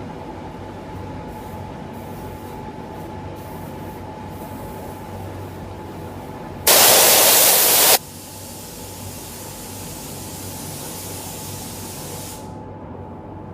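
Steady workshop hiss with a faint hum, broken about seven seconds in by one loud blast of compressed air lasting just over a second, as from a spray gun or air blow gun.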